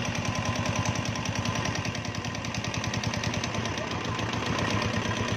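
Royal Enfield Bullet single-cylinder engine idling steadily with a fast, even ticking, the tappet noise that the owner treats as a problem.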